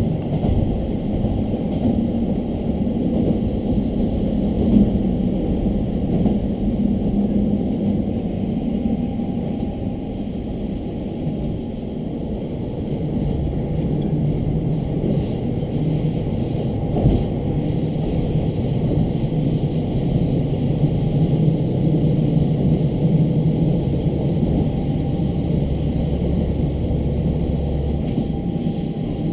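Diesel railcar running along the line, heard from on board: a steady diesel engine drone and the rumble of wheels on rail, with an occasional knock. The engine note drops a little about halfway through.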